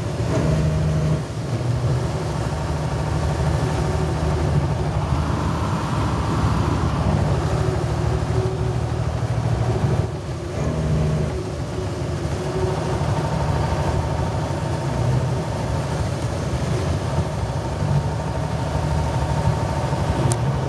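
Peterbilt semi truck's diesel engine running under way, heard from inside the cab with road noise, its note dipping briefly about a second in and again around ten seconds in.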